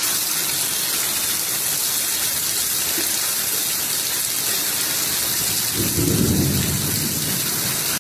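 Steady, dense rushing hiss like heavy rain, with a low rumble swelling up about six seconds in and fading a second later.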